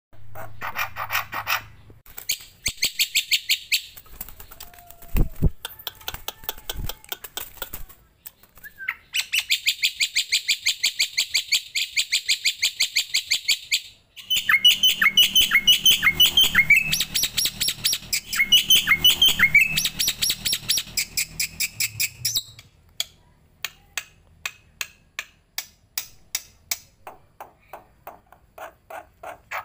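Starling and myna calls from a songbird tutoring recording: bouts of fast rattling chatter, then a series of short, sharp downward-sweeping notes about halfway through. In the last third come sparse sharp clicks, a few a second.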